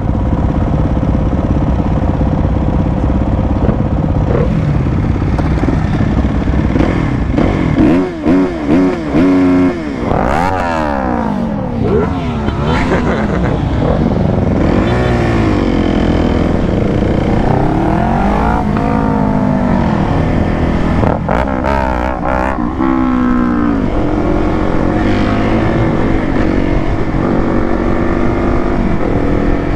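Several motorcycles riding together in a pack, their engines running steadily. Repeated revs rise and fall in pitch through the middle stretch.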